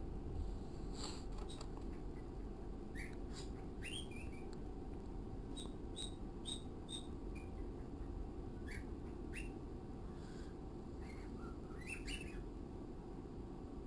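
Pet birds chirping faintly: scattered short chirps and quick upward-sliding calls, with a run of four short chirps about half a second apart around six seconds in, over a steady low hum.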